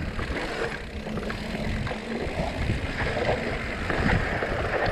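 Mountain bike descending a rough dirt trail: a steady rush of wind and tyre noise over dirt and rock, with scattered knocks and rattles from the bike.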